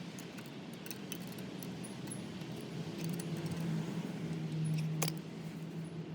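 Honda Little Cub AA01's small four-stroke single-cylinder engine running steadily, rising a little in the middle, with scattered sharp metallic clicks and a loud click about five seconds in.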